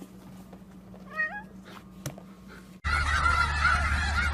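A cat gives one short, wavering, rising meow about a second in. About three seconds in the sound cuts abruptly to a flock of geese honking over a low rumble.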